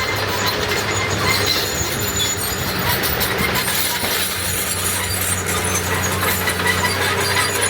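Heavy diesel earthmoving machinery running steadily, a low even engine hum over a wash of mechanical noise, with scattered high metallic squeaks and clinks.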